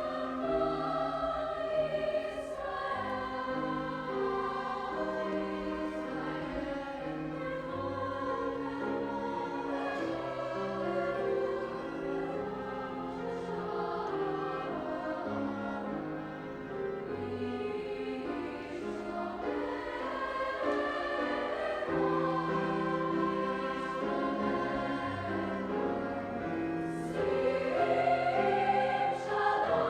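A high school choir singing a slow piece in several parts, with held notes and chord changes every second or two.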